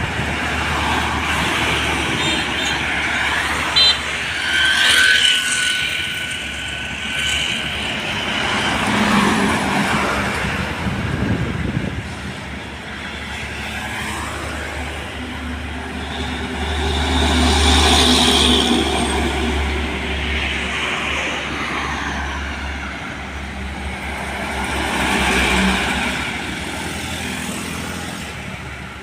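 Road traffic with trucks and other vehicles passing one after another, engines and tyres swelling up and fading away several times, the loudest pass about two-thirds of the way through.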